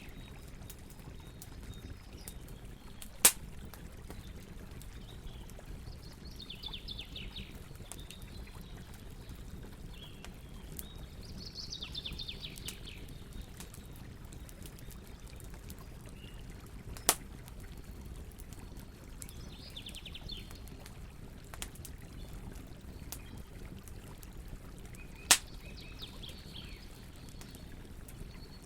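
Campfire crackling with faint ticks and three sharp pops from the burning wood, over a steady low rumble. A bird gives short, rapid chirping trills every several seconds.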